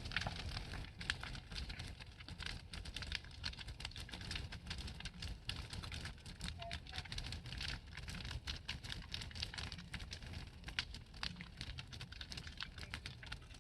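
Large bonfire crackling: a dense run of irregular sharp snaps and pops over a low steady rumble.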